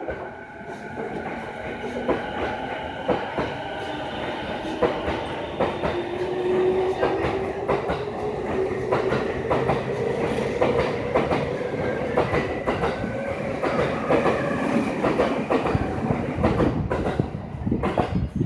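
Rinkai Line 70-000 series electric train running between stations, heard from inside the car: wheels clicking over rail joints with a steady rumble, and a motor whine that slowly shifts in pitch.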